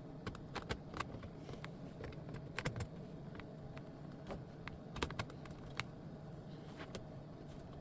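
Irregular small clicks and taps of hands handling and fitting parts into a vintage amplifier's chassis during reassembly.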